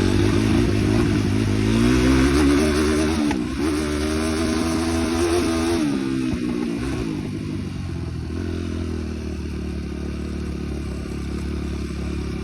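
Small engine running under way: its pitch climbs over the first two seconds, dips briefly about three and a half seconds in, then falls off around six to seven seconds and settles into a steadier, slightly quieter run.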